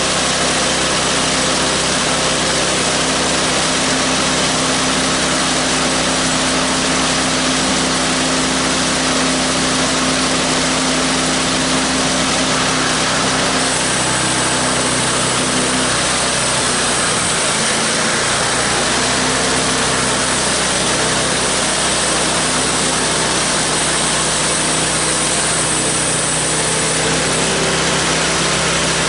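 Engine of a homemade bandsaw sawmill running steadily while the mill saws a log. A high hiss joins about halfway through and stops near the end.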